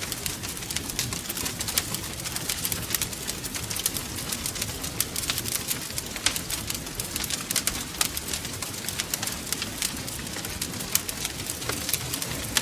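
Wood fire crackling steadily, with many sharp irregular pops and snaps over a low rumble of burning.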